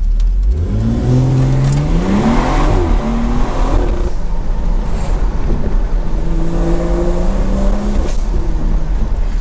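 BMW 340i's tuned, turbocharged B58 inline-six accelerating hard from a launch-control start. It revs up through first gear, shifts up about three seconds in and pulls again, then eases off near the end.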